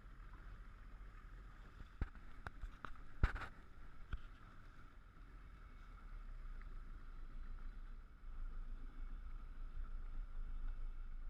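Speedboat running over the sea: a steady engine-and-water rumble with a few sharp knocks between two and four seconds in, growing louder after about eight seconds.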